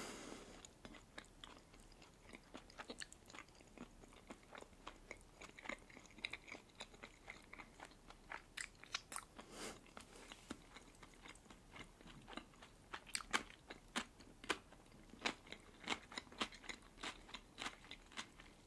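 Close-miked chewing of a bite of red-caviar sandwich: a run of soft, wet mouth clicks and small crackles, thicker in two stretches around the middle and later on.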